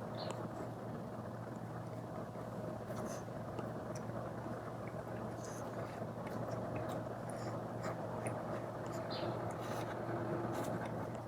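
Apple Pencil tip scratching and tapping lightly on a paper-textured iPad screen protector in short, scattered strokes, over a steady low background hum.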